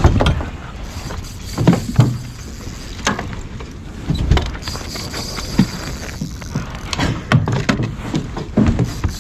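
Irregular knocks and thumps on a kayak, several a second or more apart, over a steady low rumble.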